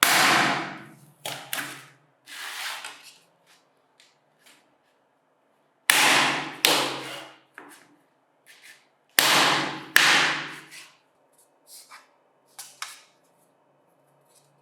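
Sharp knocks in irregular groups, each dying away over about half a second: three near the start, two about six seconds in, two more around nine to ten seconds, then a few lighter taps near the end.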